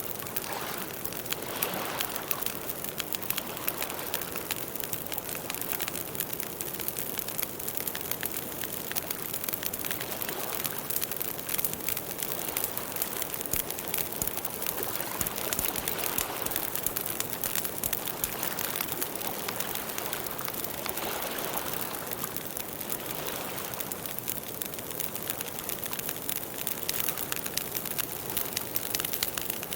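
Campfire burning with a steady, dense crackle of many small pops and soft hissing swells now and then.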